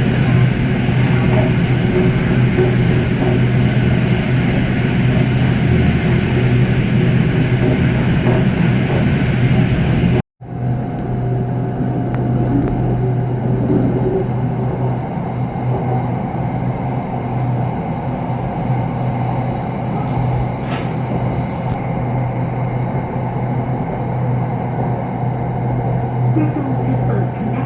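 Running noise of an SRT Red Line electric commuter train at speed, heard from inside the car: a steady rumble with a low hum. The sound cuts out abruptly about ten seconds in, then resumes softer and duller.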